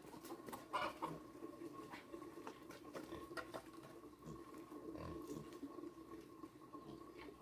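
Chickens clucking faintly, with scattered small clicks and knocks over a steady low hum.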